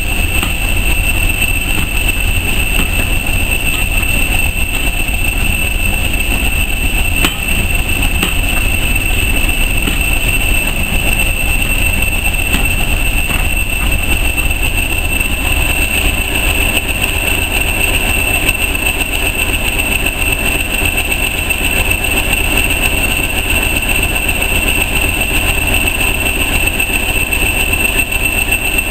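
A train of vintage railway coaches rolling slowly past on the track: a steady low rumble, with a steady high whine over it.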